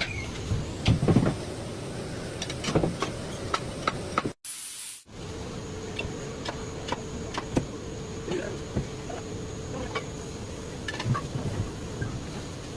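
Work on a tyre being retreaded: scattered knocks and taps over a steady hum, with a moment's silence about four and a half seconds in.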